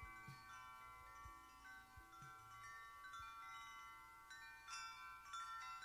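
Faint wind chimes ringing, many overlapping sustained tones struck again and again. Four short low notes sound in the first three seconds.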